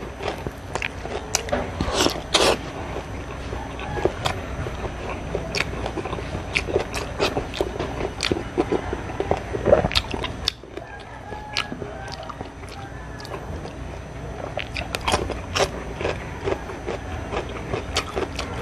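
Close-miked eating sounds: crunching and chewing of a hand-eaten meal of crispy fried galunggong (round scad), rice and steamed okra, with many sharp crunches, the loudest about two seconds in and near the middle.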